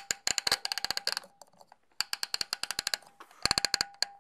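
Timer dial of a Creda Advance tumble dryer being turned, giving rapid ratcheting clicks, about ten a second, in three bursts with short pauses between.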